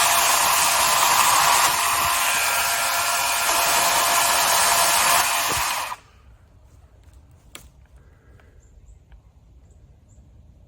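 DeWalt FlexVolt 60V Max 18-inch battery chainsaw (DCCS672B) running with a steady electric whine and chain noise, stopping abruptly about six seconds in, followed by a single click.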